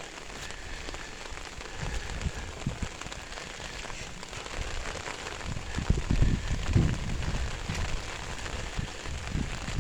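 Steady rain falling and pattering, with irregular low bumps loudest about six to seven seconds in.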